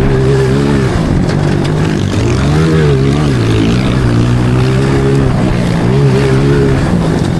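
Small single-cylinder pit bike engine being ridden, its pitch rising and falling again and again as the throttle is opened and closed.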